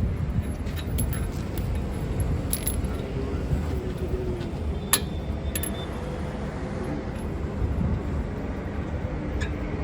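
Steady low rumble of motor vehicles with scattered light metallic clicks and clinks, one sharper click about five seconds in.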